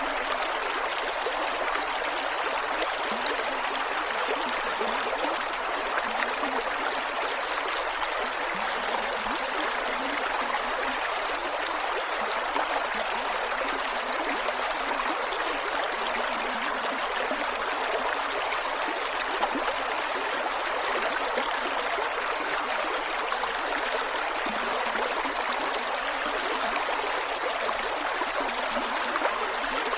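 A creek flowing steadily over rocks, with a continuous rush and small gurgles and trickles.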